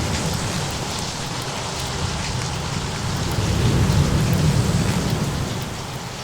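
Steady rain with a low rumble of thunder that swells about three to five seconds in, then eases off.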